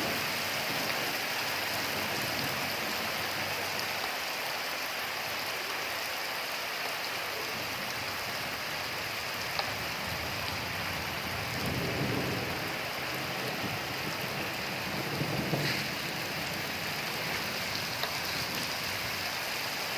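Steady rain falling and pattering on surfaces, with low rumbles swelling up twice in the second half.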